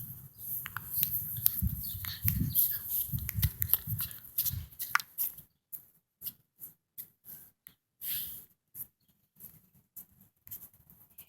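Rustling, scraping and dull thumps of someone trying and failing to climb a tree, busiest for the first five seconds, then only scattered small clicks.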